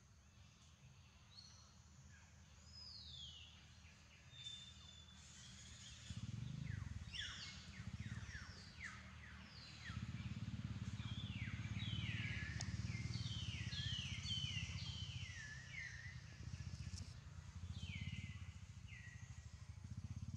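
Birds calling: runs of quick, high chirps, each sweeping downward in pitch. Under them a low rumble grows louder about six seconds in and again about ten seconds in.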